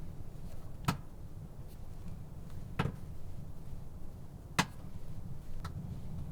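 Three sharp knocks about two seconds apart, with a fainter fourth near the end, over a steady low rumble.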